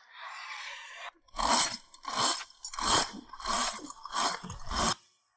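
A short hiss, then a chain hoist being worked in six rhythmic rasping strokes, about one every 0.7 s, pulling on a bent car chassis rail.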